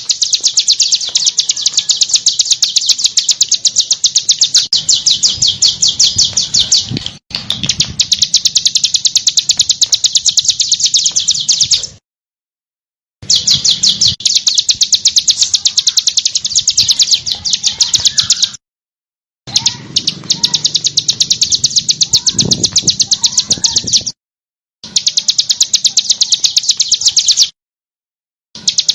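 A small songbird's harsh, very rapid rattling song: fast, evenly repeated high notes in runs of several seconds, each run cut off abruptly by a short silent gap, four times.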